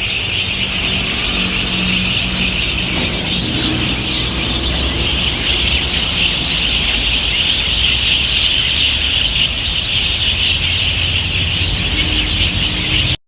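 Loud, dense chorus of a large flock of birds all chirping at once, a continuous shrill din of overlapping calls over a low rumble, cutting off abruptly near the end.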